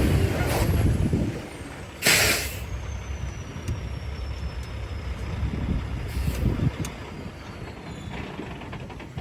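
Mack CXU613 semi truck's MP8 diesel engine running, easing off in the first second or so and settling to a low rumble. About two seconds in comes a short, loud hiss of air released from the air brakes, with a fainter hiss around six seconds, and a faint whine falls slowly in pitch under the engine.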